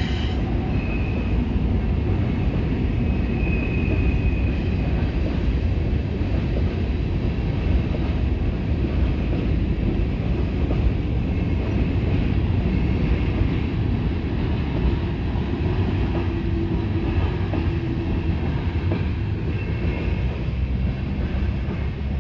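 CSX freight train passing at close range: a steady heavy rumble of wheels on the rails, with a few brief high wheel squeals.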